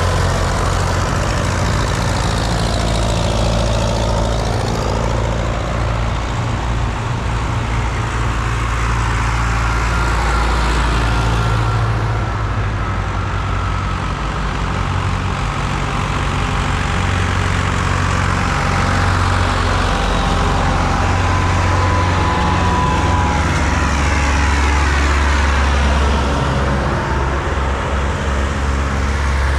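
Diesel engines of vintage tractors running steadily on the road, a continuous low engine drone with the sound shifting slowly as the tractors move past.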